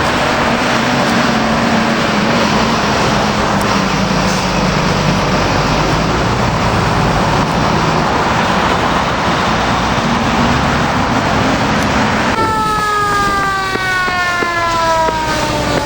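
Loud engine and road noise of a heavy emergency vehicle going by. About twelve seconds in, it changes abruptly to a siren wail sliding slowly down in pitch, then starting to climb again at the end.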